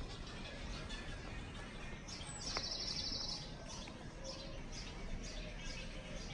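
A small songbird gives a rapid, high trill about a second long, a little over two seconds in, over scattered faint high chirps and a steady low outdoor background noise.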